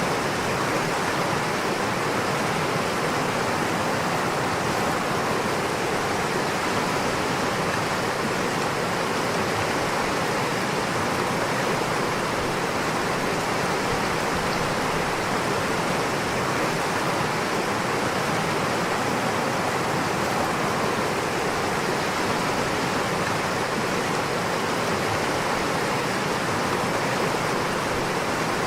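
Running water rushing steadily, an even unbroken hiss without pauses or changes.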